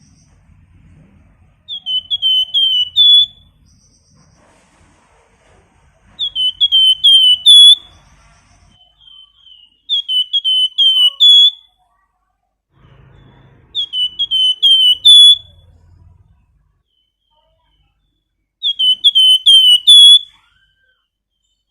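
Flamboyan songbird singing in clear whistles: five repeated phrases, each a quick run of four or five rising, slurred whistle notes ending on a higher note, spaced about four seconds apart.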